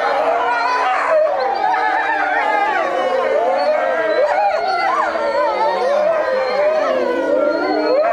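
A pack of European wolves howling together in chorus, many long gliding howls at different pitches overlapping without a break, with a few quick rising yelps in the middle.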